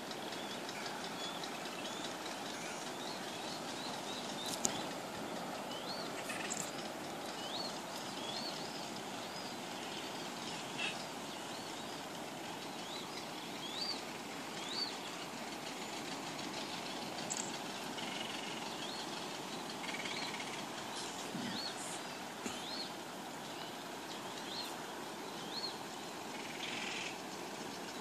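Birds calling with short, high, arched chirps, roughly one every second or so, over a steady rush of surf.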